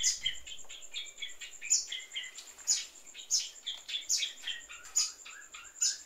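Birds chirping: many quick, short high calls, with a sharper, brighter chirp about once a second.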